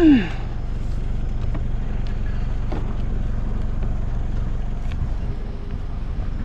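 Steady low engine and road noise of the Subaru BRZ heard from inside the car. Right at the start there is a brief loud sound that falls quickly in pitch.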